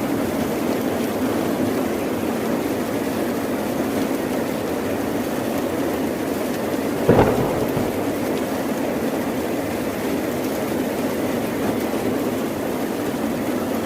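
Steady heavy rain, with one sudden sharp crack of thunder about halfway through that dies away within a second.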